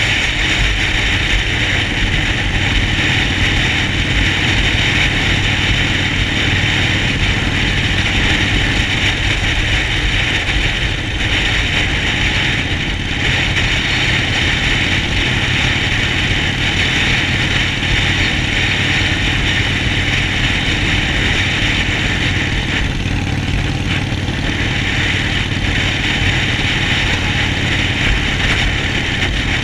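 Harley-Davidson Sportster Forty-Eight's V-twin engine running at a steady pitch, with a steady high hiss over it.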